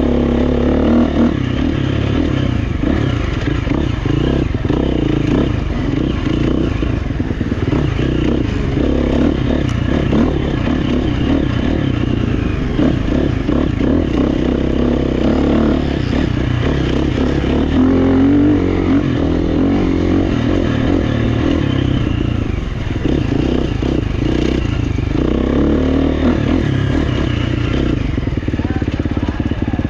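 GasGas EX350F dirt bike's 350 cc single-cylinder four-stroke engine, heard from on the bike, revving up and down continuously while riding trail. Over it runs the clatter of the bike over rough ground.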